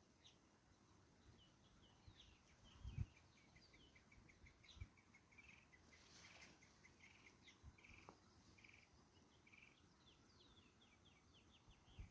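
Faint birdsong: quick runs of short, high chirping notes from small birds, repeated throughout. A low thump comes about three seconds in and another near five seconds.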